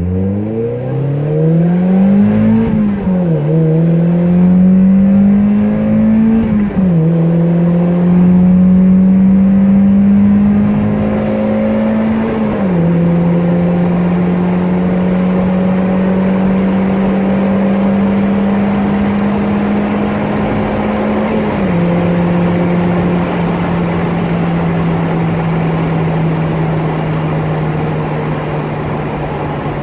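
2002 Mazda Miata NB's four-cylinder engine through a catless exhaust with a Goodwin Racing Roadster Sport 3 muffler, heard inside the cabin with the top and windows up. It makes wide-open-throttle pulls through the gears, its pitch climbing and then dropping at each of four upshifts, each pull longer than the last. After the last shift it settles into a steady cruise.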